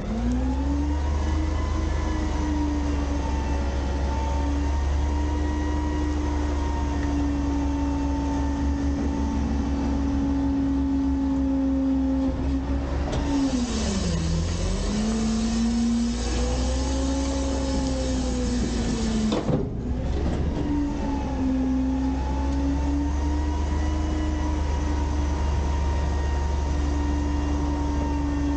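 Garbage truck engine held at raised revs to drive the packer hydraulics while the packer blade cycles. About halfway through, the engine pitch sags under load and recovers, with a hiss that lasts several seconds and cuts off suddenly.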